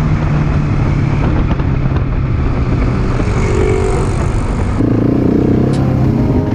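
Motorcycle engine running while under way, its note sinking slightly as the revs ease, with a change in tone about five seconds in.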